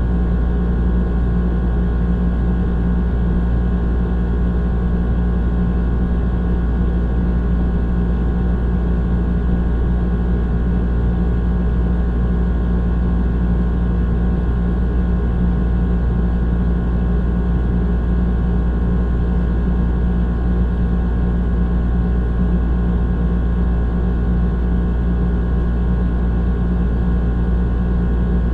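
Old air conditioner running steadily: a constant low hum from the compressor and motor, with the rush of the fan and several faint steady whining tones above it.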